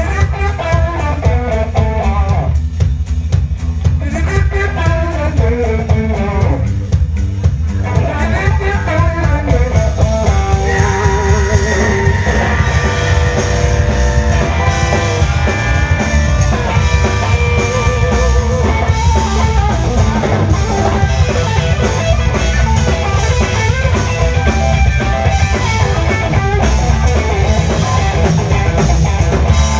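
Live blues-rock band playing an instrumental passage: a lead guitar plays bending melodic lines over bass and a drum kit keeping a steady beat. The upper parts break off briefly twice in the first eight seconds, then fill out into sustained lines.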